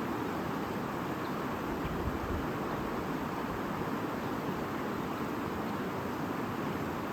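A shallow stream babbling steadily over stones.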